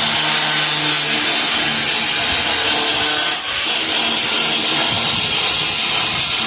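Handheld power tool abrading the steel of a car's frame rail: a steady, loud, hissing scour over a motor hum, easing off briefly about three and a half seconds in.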